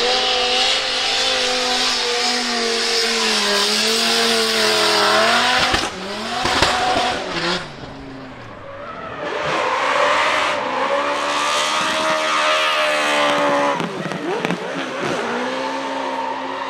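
Drift car engine held at high revs, its pitch wavering, while the rear tyres screech and spin in a drift. There are a few sharp cracks about six seconds in. The sound dips around eight seconds, then the engine and tyre noise build up again.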